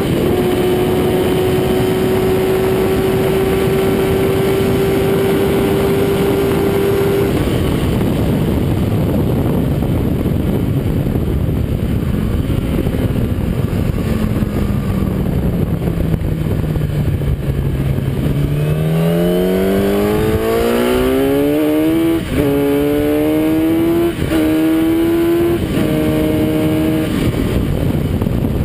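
Kawasaki ZX-10R inline-four engine held at steady high revs, then its note falls away as the bike slows. In the last third it climbs again through the gears with three quick upshifts. Heavy wind rush over the onboard microphone throughout.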